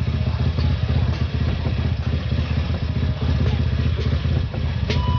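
250cc motorcycle engine running steadily through a newly fitted Andy Speed aftermarket exhaust, with a rapid, even low exhaust beat and no revving.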